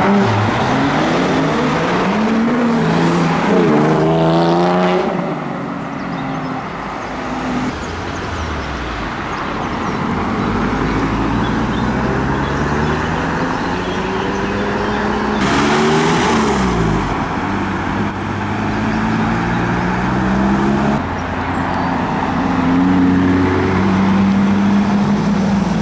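Performance car engines revving as cars pull away one after another, the pitch climbing under acceleration and dropping back at each gear change. About two-thirds of the way in, one car passes close by with a louder rush.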